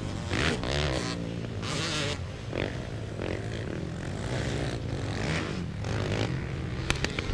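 Several racing quads (ATVs) running on a dirt flat-track oval, their engines revving up and down in pitch as the pack goes through the turns. A few sharp clicks come near the end.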